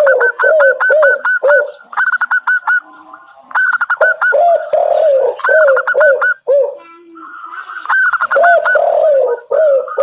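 Zebra doves (perkutut) cooing in quick runs of short repeated notes, with two series at different pitches overlapping. The runs break off briefly about three seconds in and again about seven seconds in.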